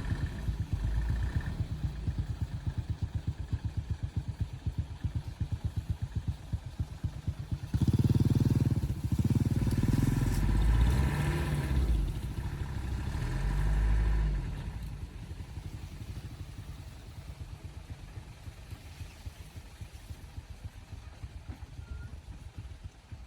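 Vehicle engine running with a steady rapid pulse, getting louder and revving up and down for several seconds near the middle, then settling back to a quieter steady run.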